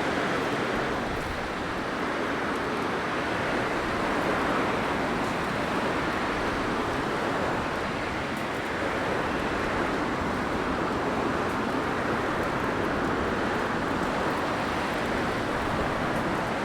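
Blizzard wind blowing steadily in a dense hiss, swelling and easing slightly every few seconds.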